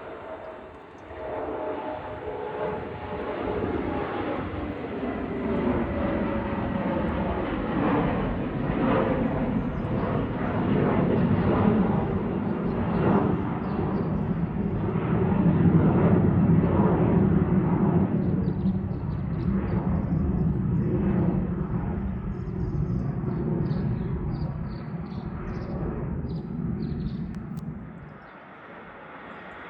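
Airplane taking off: engine noise swells over the first few seconds, is loudest around the middle and fades away near the end as the aircraft climbs out.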